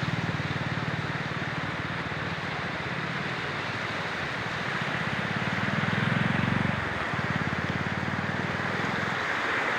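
A motor engine running steadily with a low, fast-pulsing note that shifts about seven seconds in and fades near the end, over a steady rushing noise.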